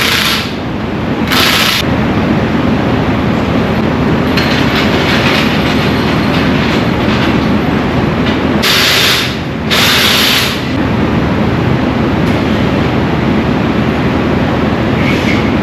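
A vehicle engine running steadily, with a few short bursts of loud hiss: one right at the start, one about a second and a half in, and two more near the middle.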